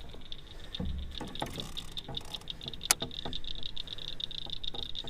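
Small clicks, light knocks and rattles of gear being handled in a canoe while a catfish is unhooked, with a dull thump about a second in and a sharp click about three seconds in.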